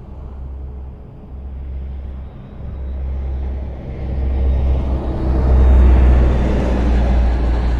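Highway traffic: a steady low rumble of tyres and engines, with a vehicle passing close by that swells to its loudest a little after halfway and fades near the end.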